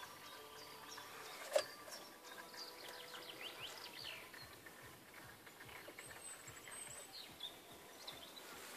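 Birds chirping, with one sharp click about a second and a half in.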